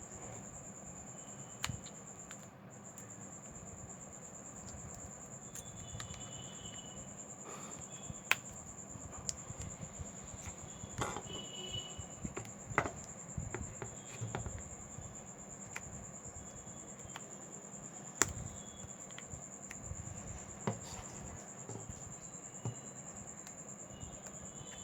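Scattered small clicks and taps of hand tools working on a smartphone being opened, over a steady high-pitched whine that breaks off briefly near the start. The sharpest clicks come in a cluster about halfway through and once more a little later.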